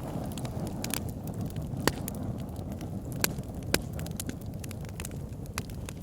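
Wood fire in an outdoor fire pit burning with a steady low rush of flames and scattered sharp pops and crackles, three louder snaps about two, three and a quarter, and nearly four seconds in.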